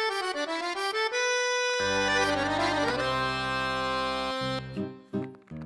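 Accordion music: a quick run of notes, then a held chord over a bass, breaking into short, clipped chords near the end.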